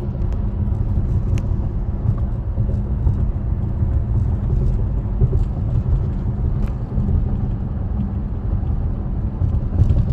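A car driving: a steady low rumble of engine and road noise, with a few faint ticks.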